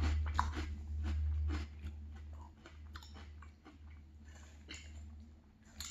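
Close-up chewing of a mouthful of Cinnamon Toast Crunch and Lucky Charms cereal in milk: a run of crunches, loudest in the first second and a half, then softer and sparser.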